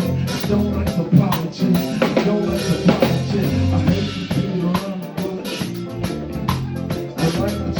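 Live band playing with a full drum kit keeping a steady beat of kick, snare and rimshots, over bass and other pitched instruments.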